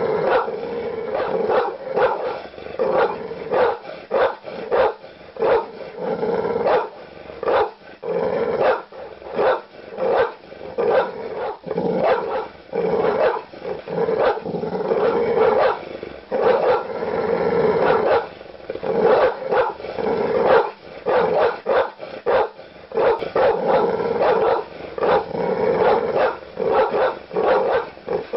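Large dog barking aggressively with deep, loud barks, several a second in almost unbroken runs.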